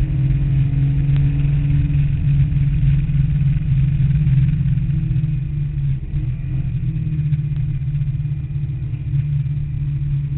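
Porsche 911's air-cooled 3.2-litre flat-six running hard under racing load, heard from inside the cabin. The engine note holds a fairly steady pitch, with a brief dip about six seconds in.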